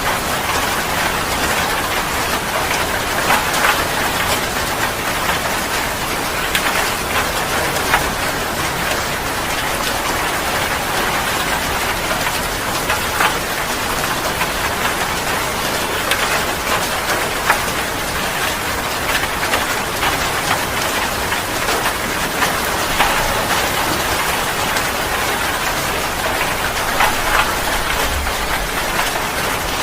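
Heavy rain falling steadily, with a constant hiss and many sharp individual drop hits throughout.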